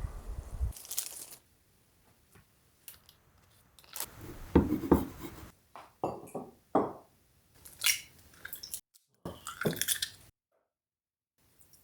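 Irregular clicks, knocks and rustles of household objects being handled, in uneven bursts, after background music fades out about a second in.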